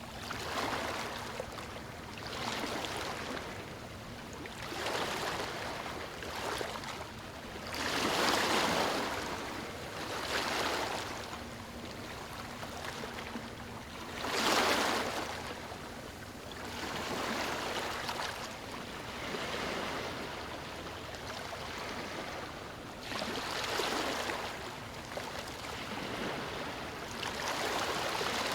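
Small waves washing onto a beach, with a swell of surf every two to four seconds over a steady wash of water.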